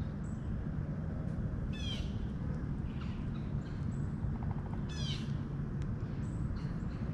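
A bird calling twice, about two and five seconds in, each call a quick run of high notes stepping downward, over a steady low rumble of background noise.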